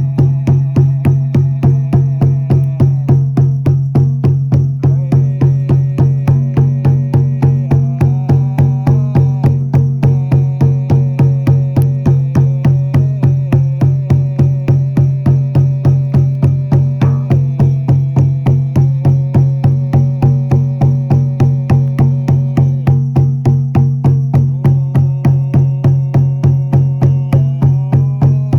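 Frame drum (buben) beaten in a steady fast rhythm, about four strokes a second, over a sustained low drone whose upper tones shift slowly like a melody.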